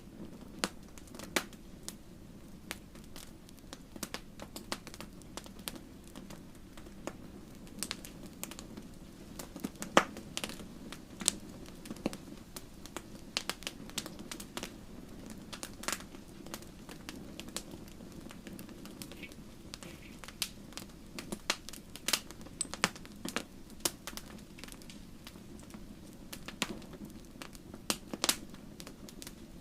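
Wood fire crackling: irregular sharp pops and snaps several times a second over a steady low rumble of burning.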